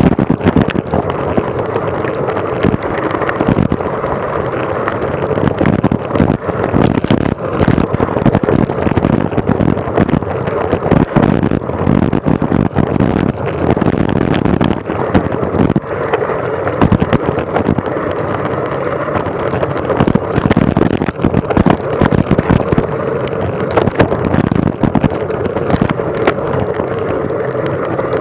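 Wind buffeting the microphone with a steady drone and many quick knocks and rattles throughout, typical of a camera on the move over rough ground.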